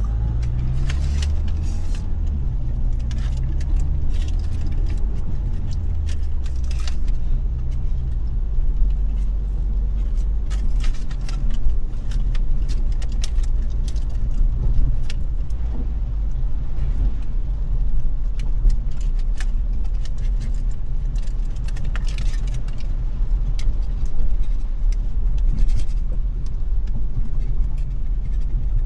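Car driving in the rain, heard from inside: a low engine and road rumble that rises in pitch over the first few seconds as the car speeds up, then runs steadily. Scattered raindrops tick irregularly on the car's body and windshield.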